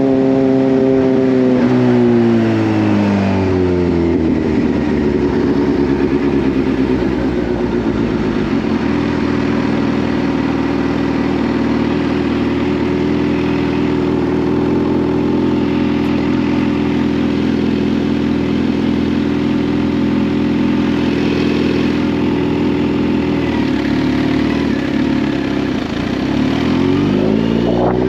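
Kawasaki Z H2's supercharged inline-four engine slowing, its pitch falling over the first few seconds, then running at a steady low speed, then revving up again near the end.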